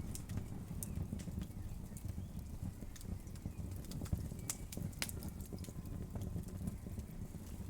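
Wood fire burning in a fireplace: a steady low rumble of the flames with irregular sharp crackles and pops from the burning wood, a few louder pops near the middle.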